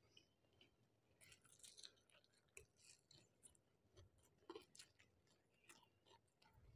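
Faint chewing and small wet mouth clicks of someone eating rice and fish dishes, with irregular light ticks.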